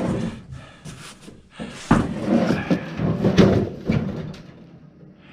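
Knocking and rattling clatter of metal tools and parts being handled on a work table, with a sharp knock about two seconds in followed by a couple of seconds of busy clatter.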